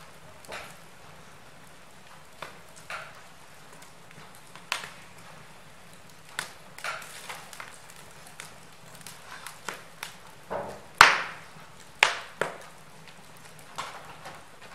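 Wood fire burning in a fireplace, crackling with irregular sharp pops and snaps over a low steady hiss. The loudest two pops come near the end, about a second apart.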